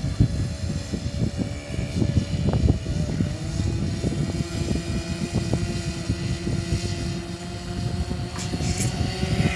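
Twin-engine control-line model airplane in flight, both small model engines running together as a steady whine.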